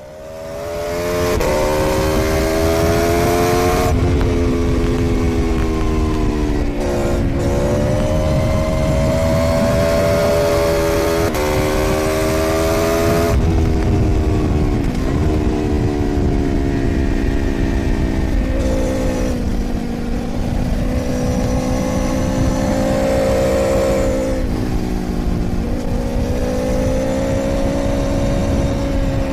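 Aprilia Tuono V4's V4 engine under hard acceleration on track, heard from an onboard camera with wind noise: the revs climb and drop again and again through gear changes and braking for corners. The sound fades up over the first second or so.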